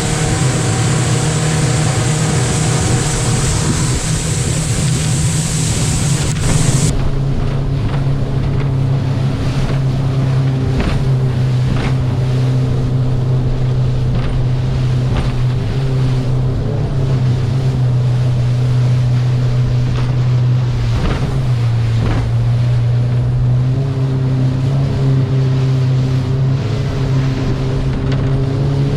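A motorboat's engine running hard and steady as the boat crosses rough, wind-driven waves, with wind on the microphone. The engine pitch dips briefly with a knock about 11 and 21 seconds in, as the hull slams a wave.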